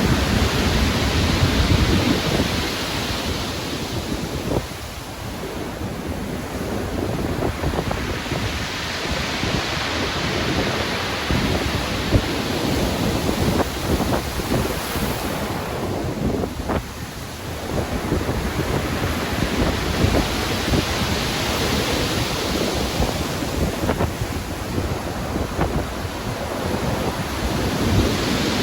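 Stormy sea waves breaking and washing in, a dense rushing noise that swells and falls back in long surges several seconds apart, with wind.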